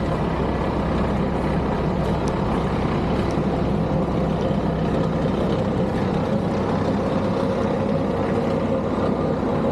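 Heavy diesel snow-removal machinery running steadily at a constant level, with a low engine hum and a steady mid-pitched whine.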